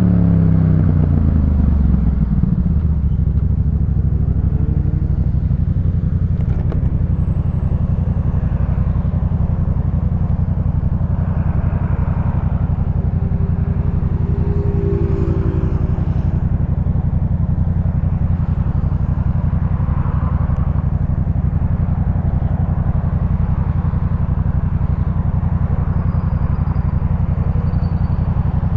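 2018 Yamaha MT-07's 689 cc parallel-twin engine through a Jeskap K4 full exhaust. The revs fall over the first two seconds, then the engine settles to a steady idle.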